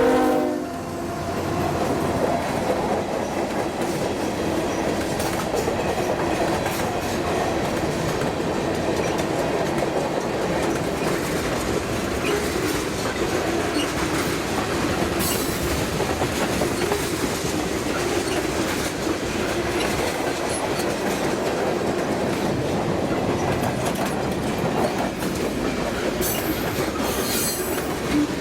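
Freight cars of a mixed freight train rolling past on jointed track with a steady clickety-clack as the train gathers speed, after the locomotive horn cuts off just at the start. Brief high wheel squeals come about halfway through and again near the end.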